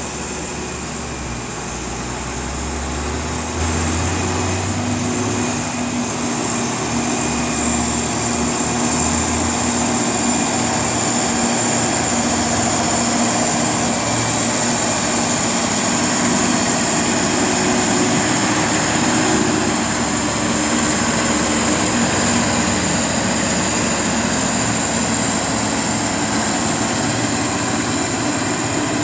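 Diesel truck engine labouring up a steep incline under load, a steady running sound that grows louder about four seconds in as the truck draws nearer.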